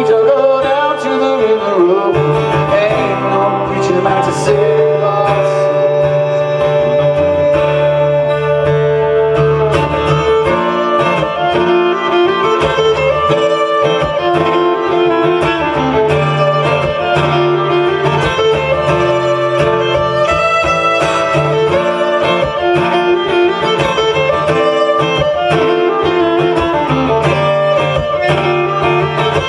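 Live acoustic folk music played by a band on stage, a sustained melody line over steady bass notes.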